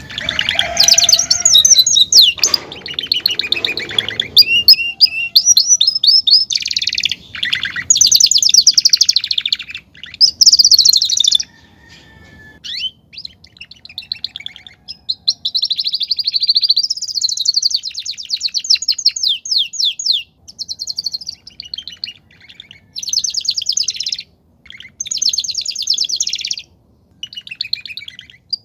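A Belgian canary singing: rapid high trills and rolling phrases in bursts of a few seconds, separated by short pauses.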